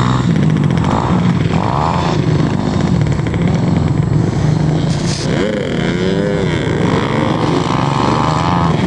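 Motocross dirt bike engines running loudly, with one engine's pitch rising and falling about five to six seconds in.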